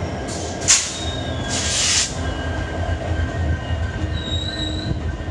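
Diesel-hauled passenger train running on the rails with a steady low rumble. Two short hissing bursts come in the first two seconds, and a thin, high wheel squeal follows about four seconds in.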